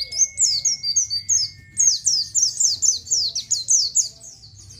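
A pleci (white-eye) singing a fast run of high, downslurred 'ciet' chirps, several a second. A thin steady tone sounds beneath for the first two seconds.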